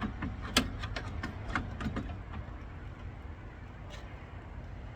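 Small clicks and taps of hand work on the car, the sharpest about half a second in, thinning out after two seconds over a low steady hum.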